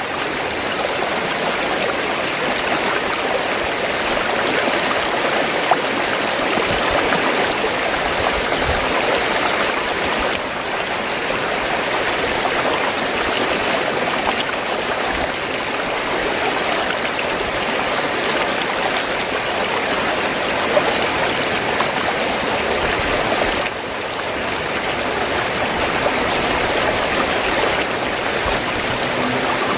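Fast-flowing stream water rushing and gurgling in a steady, dense wash, dipping slightly for a moment twice.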